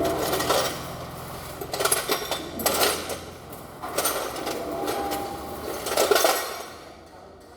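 Metal hand tools and engine parts clinking and clattering in several irregular bursts, with a faint low hum underneath for the first couple of seconds.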